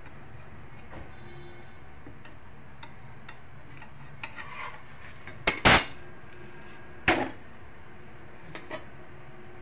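A metal spatula knocking against a tava as a bhakri is flipped. The loudest knock is a double one a little past the middle, with a second sharp knock about a second and a half later and a few lighter clinks around them, over a steady low hum.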